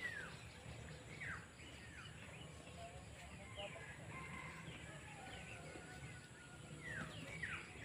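Faint wild bird calls: about half a dozen short, falling whistles, spaced a second or more apart, with two close together near the end, over a low steady background hiss.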